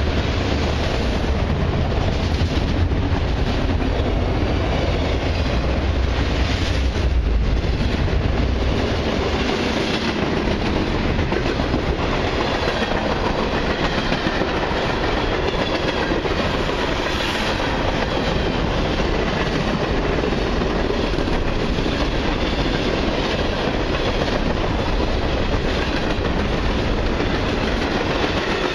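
Long freight train's cars rolling past at speed, wheels clacking steadily over the rail joints. A deep low rumble fades out about eight seconds in.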